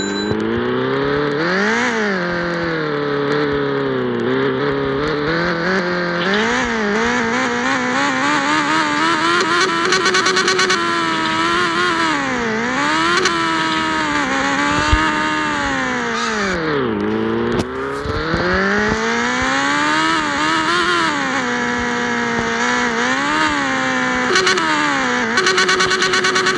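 Yamaha XJ6 inline-four engine with an open, muffler-less exhaust, loud, its pitch rising and falling again and again as the bike accelerates and eases off through the gears. It settles to a steady note near the end.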